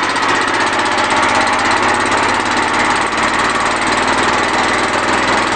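Generator engine running steadily on woodgas, loud, with leaks around the cylinder head on the intake and exhaust sides that the owner says make it noisy and hard to start.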